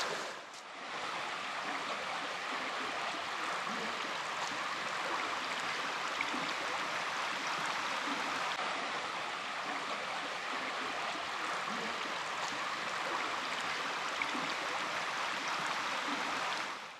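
Creek water running steadily over shallow rapids, an even rushing and babbling that fades out at the very end.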